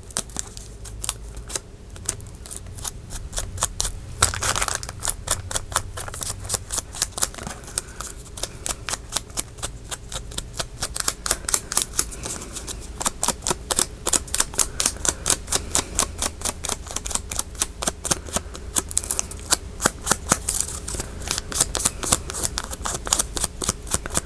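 Distress Oxide ink being dabbed onto paper in a long run of quick, light taps, about four a second, steady throughout.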